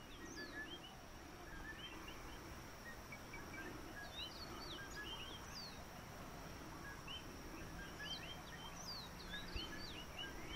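Several small birds chirping with short, quick sweeping notes, scattered throughout, over a faint steady hiss and a thin, steady high tone.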